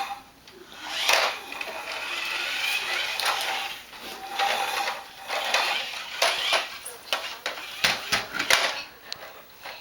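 Plastic toy dump truck clattering and knocking as a small child pushes and handles it, with a few knocks close together near the end and some of the child's vocal sounds.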